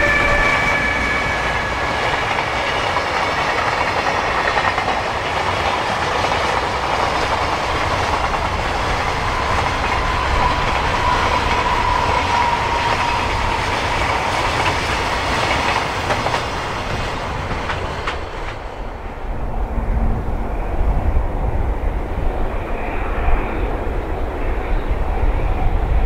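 Freight train wagons rolling past with rhythmic clickety-clack of wheels over the rail joints, with a few falling squeal-like tones early on; the rolling noise drops away about eighteen seconds in as the end of the train passes. After that a lower rumble builds toward the end as the next freight train, an oil train, approaches.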